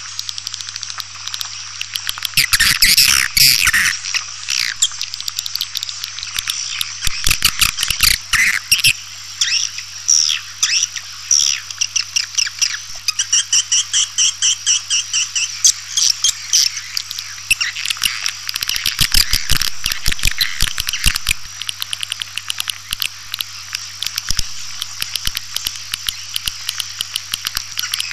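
Swiftlet lure-call recording: dense, rapid twittering chirps and fast trains of clicks, used to call walet swiftlets to a nesting house, with a steady low electrical hum underneath.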